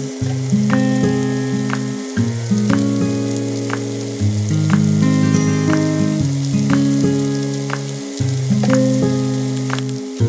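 Chicken pieces sizzling as they fry in oil in a nonstick pan, a steady hiss. Over it runs background music with held notes that change every second or two.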